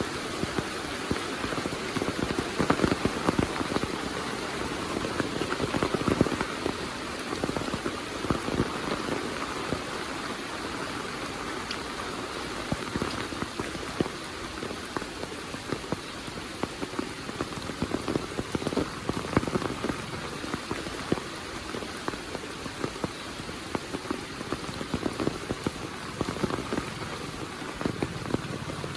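Heavy monsoon rain falling steadily, with many sharp drops hitting close by.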